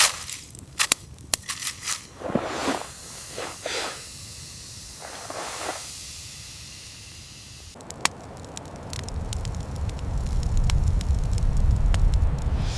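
Fire crackling, with sharp snaps in the first two seconds and a few soft whooshes; from about two-thirds of the way in a low rumble builds under dense small crackles.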